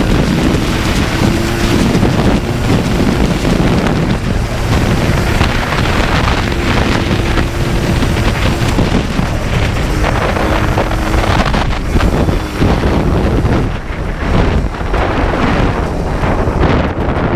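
Heavy wind buffeting the microphone over the two-stroke single-cylinder engine of a Yamaha Blaster 200 ATV running at speed, its engine note holding steady in short stretches.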